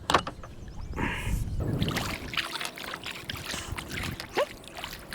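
Kayak paddle strokes: the blade swishing through the water with splashing and dripping, and a sharp knock just after the start.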